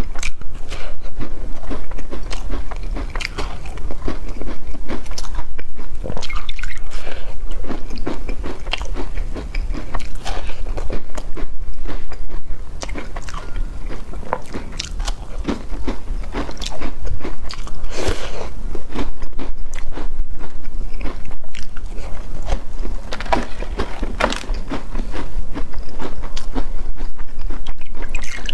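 Close-miked crunchy bites and chewing of crisp sesame-topped biscuits. The loud crunching comes in spells, with softer chewing between them.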